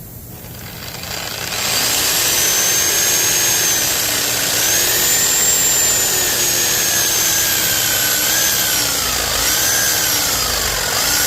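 Power tool spinning up over the first couple of seconds, then running steadily as it cuts through metal on the engine, its pitch sagging and recovering again and again as it is loaded into the cut.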